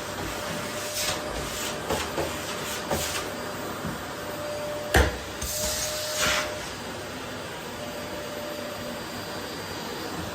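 Vacuum cleaner running steadily with a faint motor whine, broken by a few light clicks and knocks, one sharp knock about halfway through and a brief rush of higher hiss just after it.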